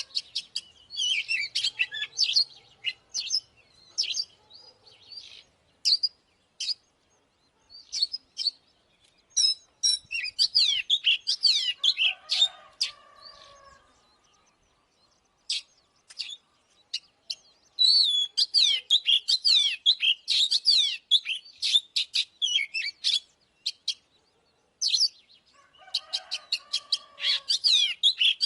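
Oriental magpie-robin singing in bursts of rapid, varied whistled phrases, with pauses of a second or two between bursts. This is a lure song meant to stir rival males into answering.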